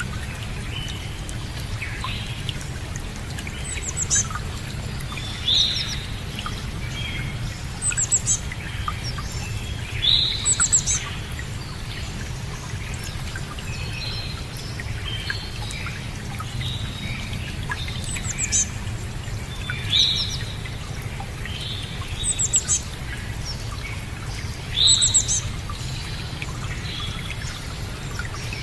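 Songbirds calling and chirping in short, repeated phrases every couple of seconds, some with quick high trills, over a steady low rushing background.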